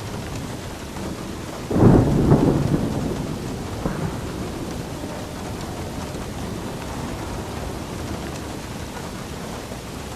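Steady rain falling, with a sudden thunderclap about two seconds in that rumbles and fades over the next few seconds, and a smaller rumble near four seconds.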